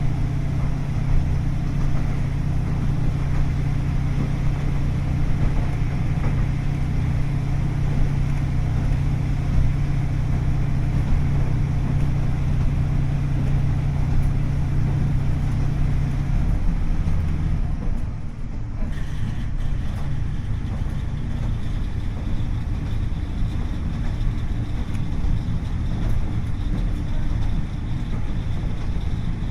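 Running sound of a KiHa 40 series diesel railcar on the move: its DMF15HSA six-cylinder diesel engine gives a steady hum over the rumble of wheels on the rails. About halfway through the engine hum stops, leaving only the rolling noise.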